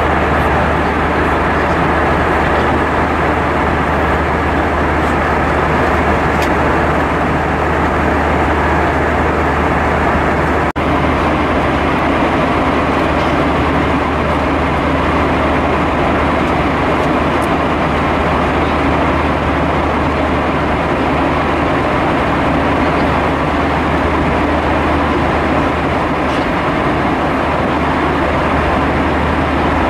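Steady cabin noise of an Airbus A320-232 in flight: the roar of airflow and its IAE V2500 turbofans, with a low hum underneath. The sound briefly drops out with a click about eleven seconds in.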